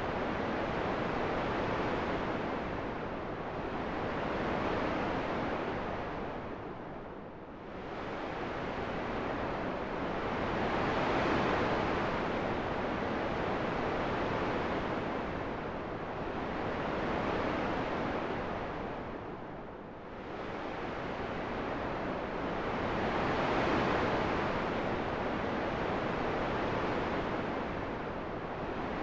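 Wind sound for sleep: a steady rushing noise that swells and eases in slow gusts, dipping twice to a lull, about a dozen seconds apart.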